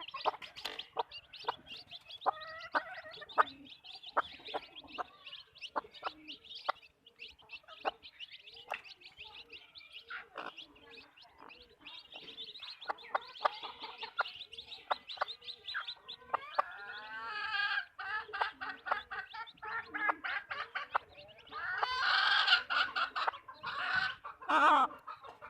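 Backyard hens clucking: many short clucks, then louder, drawn-out calls near the end.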